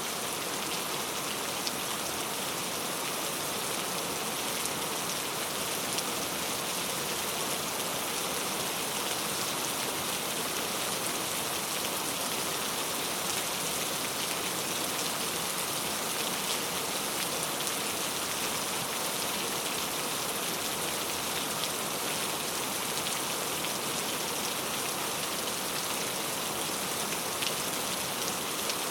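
Steady rainfall: an even hiss of rain with scattered small drop ticks.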